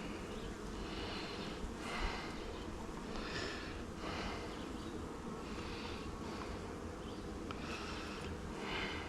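Honeybees buzzing around an open hive, a steady hum, with soft rushes of noise coming about once a second.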